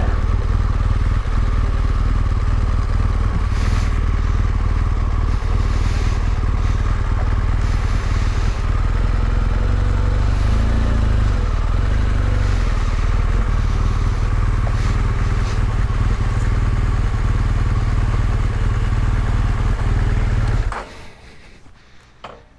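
Motorcycle engine running steadily under way, with wind rush, until it stops abruptly near the end.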